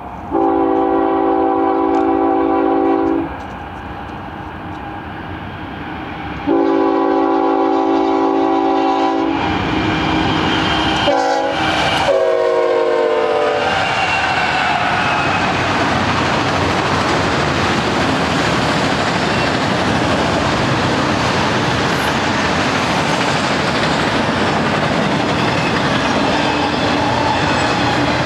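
Union Pacific GE ES44AC (C45ACCTE) freight locomotive sounding its multi-note air horn: two long blasts, then a third blast about ten seconds in whose pitch drops as the locomotive passes. After that comes the steady rumble and clatter of the autoracks and double-stack container cars rolling by.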